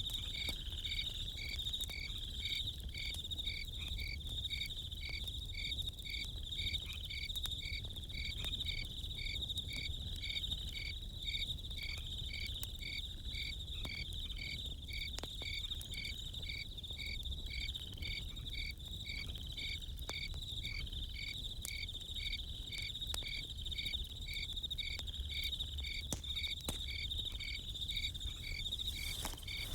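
A chorus of crickets chirping: a steady high trill with a regular pulsed chirp about twice a second. Faint scattered crackles of a campfire and a low rumble lie beneath.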